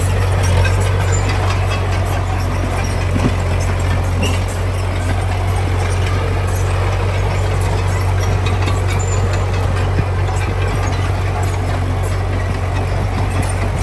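Heavy diesel engine of construction machinery running steadily with a low drone, with scattered small clatters over it.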